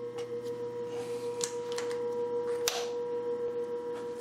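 Electric motors of an old Brown & Sharpe #1 cylindrical grinder running with a steady hum, broken by two sharp clicks about a second and a half in and near the middle.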